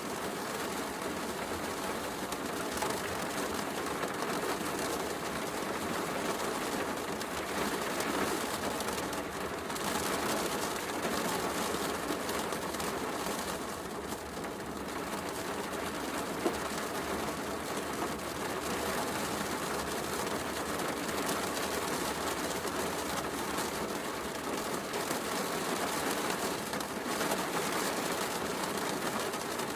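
Heavy rain falling steadily, blended with a crackling wood fire; one sharper pop about halfway through.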